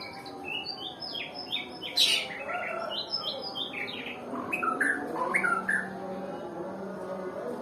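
White-rumped shama (murai batu, Nias type) singing a run of short, quick whistled notes, with one loud sweeping note about two seconds in; the phrases thin out after about six seconds.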